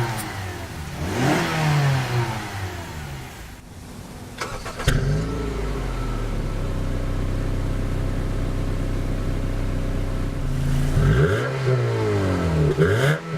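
2012 Honda CR-V's 2.4-litre four-cylinder engine being revved: the pitch rises and falls near the start and again near the end, with steady running in between. A few sharp clicks come about four and a half seconds in.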